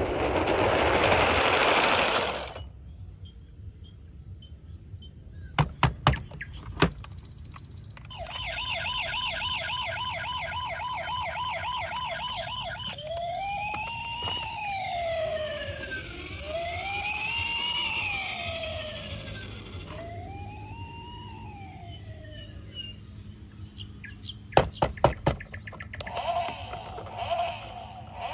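Electronic toy vehicle siren: a fast warbling yelp for about five seconds, then switching to several slow rising-and-falling wails. It is preceded by a loud burst of rustling noise and a few sharp clicks, with more clicks near the end.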